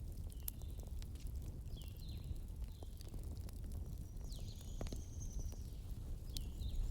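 Bonfire crackling over a steady low rumble, with sharp pops of burning wood scattered through. Several short high chirps come and go over it.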